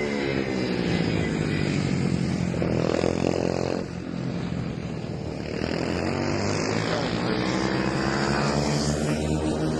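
Several 110cc mini motorcycles racing on a circuit, their engines revving and changing pitch as they sweep past and accelerate out of corners.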